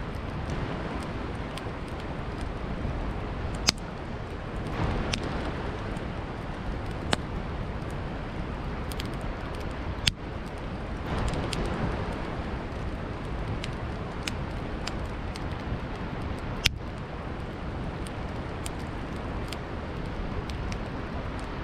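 Wood campfire crackling, with many small snaps and a few sharp loud pops, over a steady rushing wash of flowing river water.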